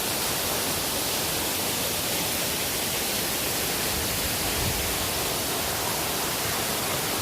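Waterfall pouring down, a steady, even rush of water.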